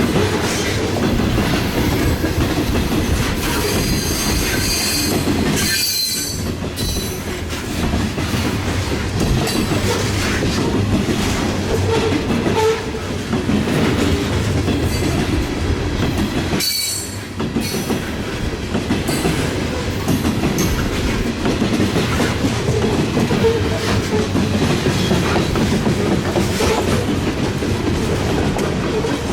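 A train's cars rolling past on the rails with a steady rumble and wheels clacking. A high-pitched squeal from the wheels comes a few seconds in and again just past halfway.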